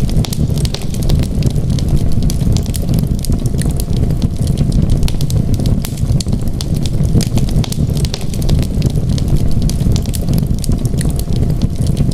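Wood fire crackling, with frequent small irregular pops and snaps over a steady low rumble of the flames.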